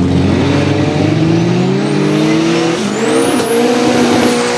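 Volvo 142 drag car accelerating hard down the strip, engine pitch climbing steadily, then dropping sharply at an upshift about three seconds in and climbing again. A high whine rises over the engine as it pulls.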